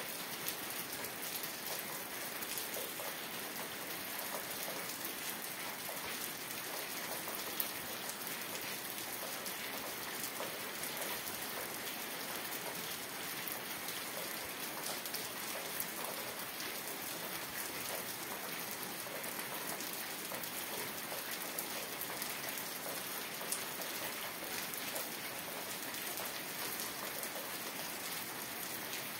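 Steady rain falling, an even hiss of drops at a constant level with a few sharper drop ticks scattered through it.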